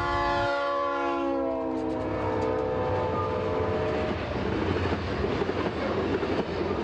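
Freight train passing: its horn holds one long chord that drops slightly in pitch and fades out about four seconds in, over the steady rumble and clickety-clack of freight cars rolling by.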